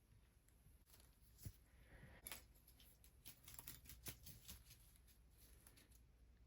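Faint rubbing and soft skin-on-skin friction of hands massaging bare feet, with scattered small clicks and crackles that come thickest about three to four seconds in.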